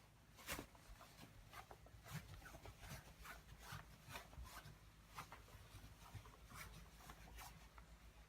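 Faint footsteps and handling rustle indoors: a string of soft, irregular taps and clicks, a few a second, over near silence.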